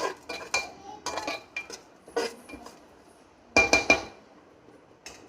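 Metal spoon clinking and scraping against a cooking pot while stirring masala paste frying in oil, with a quick run of three louder knocks about three and a half seconds in.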